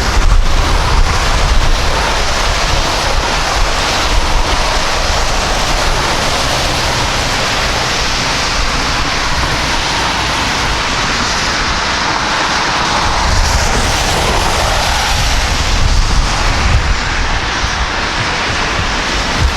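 A jet airliner's engines as it passes close by: a loud, steady rush whose tone sweeps down and back up partway through. Wind rumbles on the microphone underneath.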